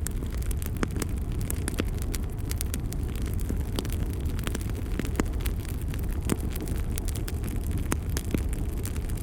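Bonfire burning: irregular sharp crackles and pops of the burning wood over a steady low rumble of the flames.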